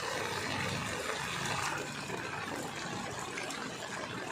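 Floodwater running steadily: an even, unbroken rush of water.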